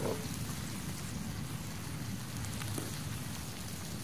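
Pork belly sizzling steadily on a hot stone grill plate over a wood fire, with a few faint crackles.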